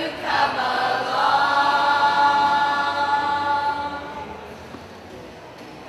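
Youth choir singing, holding one long chord that fades away about four seconds in.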